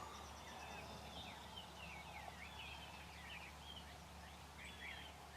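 Faint distant bird calls, with wild turkeys gobbling in the distance.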